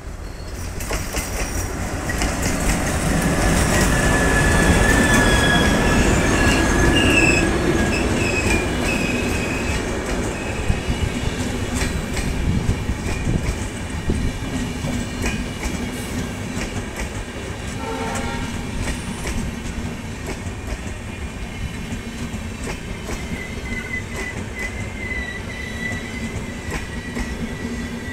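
Passenger express train passing close. The locomotive goes by loudest in the first several seconds, then the coaches roll past with a steady clatter of wheels over rail joints. A thin, high wheel squeal comes in near the end.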